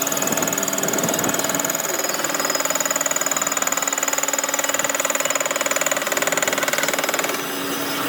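A workshop power tool running steadily with a fast, even buzz and steady whine, dropping away about seven seconds in to a quieter machine sound.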